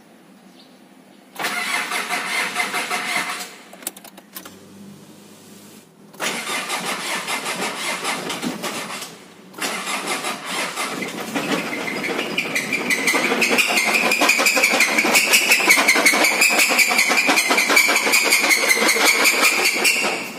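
Mitsubishi 4D56 four-cylinder diesel engine started: it runs in two short bursts that cut out, then catches about ten seconds in and keeps running, getting louder. It makes a hard, rapid metallic knocking, the sign of a failed number 1 connecting rod bearing.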